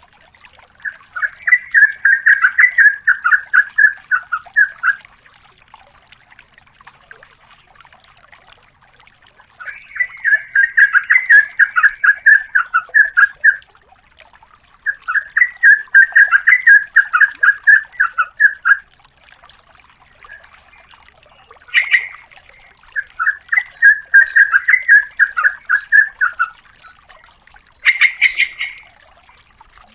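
Yellow-vented bulbul singing in four long, fast, bubbly chattering phrases of about four seconds each, with short single calls in between, the last one near the end.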